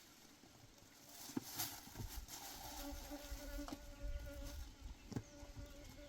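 A flying insect buzzing: a steady hum that comes in about three seconds in, with a few light knocks.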